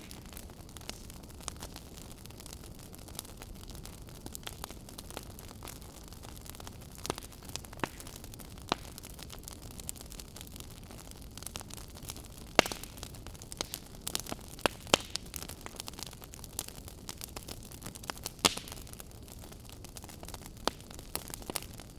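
Wood fire burning in a fireplace: a steady hiss under irregular sharp crackles and pops, with the loudest pops clustering a little past halfway and again near three-quarters through.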